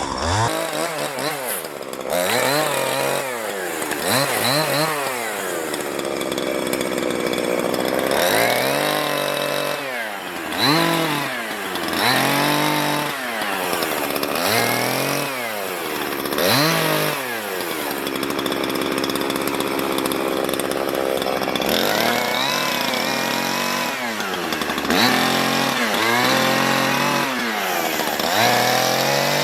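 Two-stroke chainsaw limbing a felled Sitka spruce, revving up and dropping back again and again, about every second or two, as it cuts through branch after branch.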